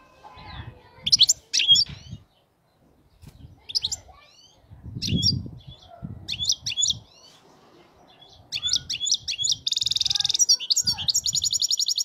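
European goldfinch (cage bird) singing in the 'khalawi' song style: a run of sharp chirps and quick twittering notes, then near the end a harsh buzzing note followed by a fast, even trill.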